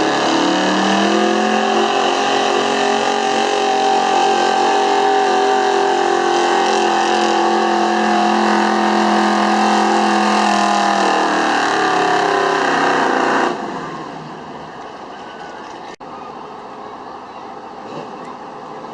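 Big-block V8 of a 1974 Ford pickup pulling a sled at full throttle: the revs climb in the first second, hold high for about ten seconds and sag a little before the sound cuts off abruptly about 13 seconds in. A quieter background of outdoor noise follows.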